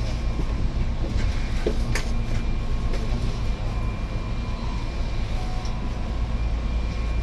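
Keihan limited express electric train running, heard from inside the car: a steady low rumble with a few sharp clicks and a faint steady whine.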